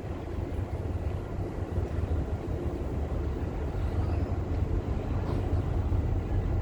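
Low, steady rumble of a Fjellstrand Flying Cat 40m catamaran ferry's diesel engines as the ferry berths.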